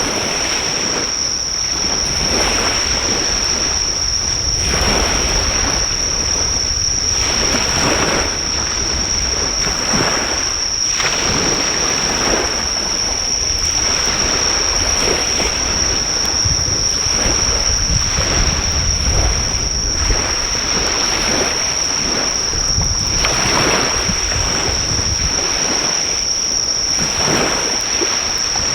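Surf breaking on the shore in steady, repeated swells, with insects calling loudly in one continuous high trill. A driftwood fire crackles faintly now and then beneath them.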